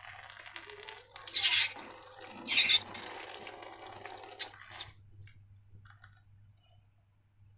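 Wet liquid sounds of slime ingredients being poured and squished, with two louder hissing squirts about a second apart early on. They stop about five seconds in.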